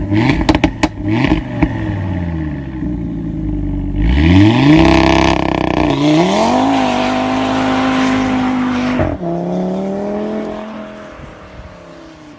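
Audi RS3's turbocharged five-cylinder engine and exhaust under hard acceleration. A few sharp crackles come first, then the revs climb, drop at two gear changes and climb again, and the sound fades as the car drives away.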